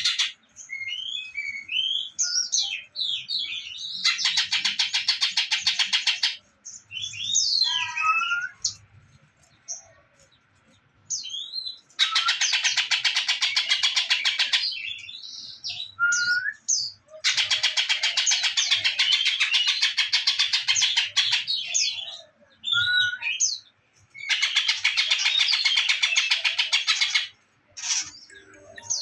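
Songbird tutor recording (masteran) for training caged birds: varied short sliding whistled notes alternating with four long, very rapid trills, each two to four seconds long.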